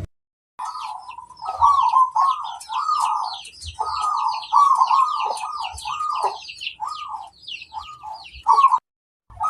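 Zebra dove (perkutut) singing its rapid cooing song, a string of short arched coos repeated one after another, with quick high twittering chirps over it. The song breaks off for a moment near the end and starts again.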